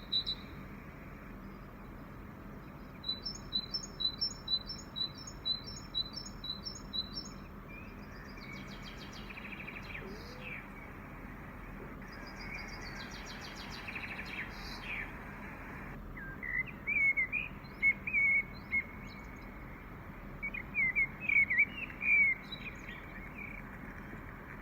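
Several different birds calling and singing outdoors over a steady background hiss: a fast run of evenly repeated high chirps about three seconds in, then assorted trills and chirps, and louder quick calls in the second half.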